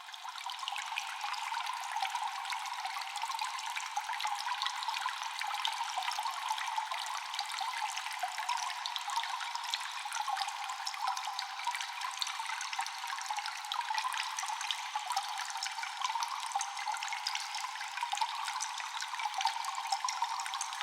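Cave water ambience: a dense, steady patter of many small water drips over trickling water. It swells up out of a brief silence in the first second.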